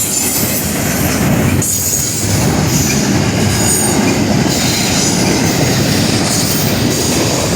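Freight train cars rolling past at close range: a steady, loud rumble of wheels on rail, with high wheel squeal coming and going.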